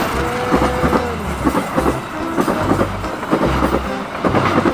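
KA Pasundan passenger coaches of a passing train rolling by, their wheels clattering over the rail joints in an uneven clickety-clack.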